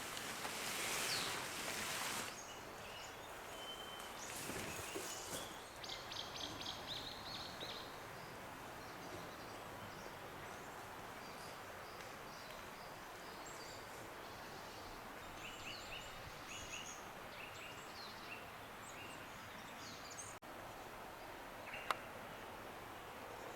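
Woodland ambience: a steady low hiss with small birds calling in short, quickly repeated high chirps in two spells, after a swelling rustle in the first two seconds. A single sharp click comes near the end.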